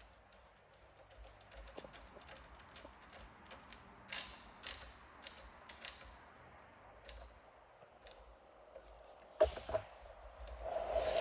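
Small, scattered mechanical clicks and ticks of parts and tools being handled, a few sharper clicks midway and a couple of knocks near the end.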